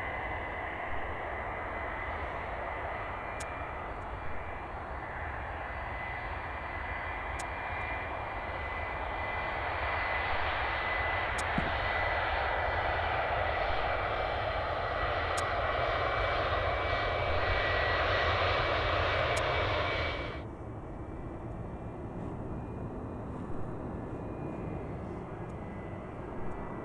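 Jet engines of a Boeing 757-200F freighter running, a steady high whine over a broad rumble that grows louder over the first two-thirds. About twenty seconds in the sound cuts off abruptly, leaving quieter, fainter aircraft noise.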